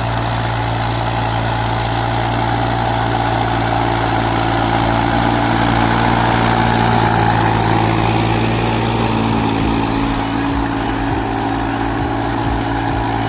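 Massey Ferguson 245 DI tractor's three-cylinder diesel engine running steadily at an even speed.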